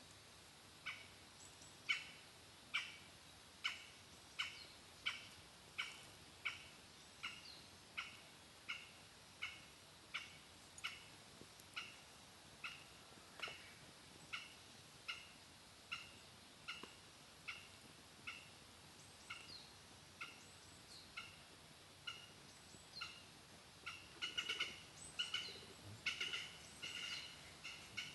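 A bird calling faintly with a long series of evenly spaced single notes, a little more than one a second, that slowly fade, then a quicker cluster of calls near the end.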